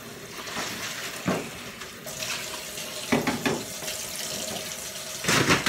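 Kitchen faucet running into the sink while a small plastic lid is rinsed under it, with a few brief louder splashes or knocks. The loudest comes near the end.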